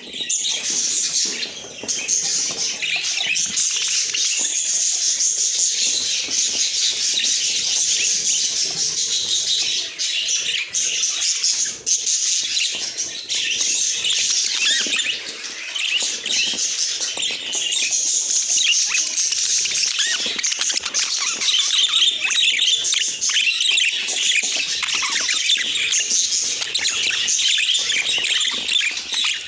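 Budgerigars chirping and warbling: a dense stream of high chirps with hardly a break.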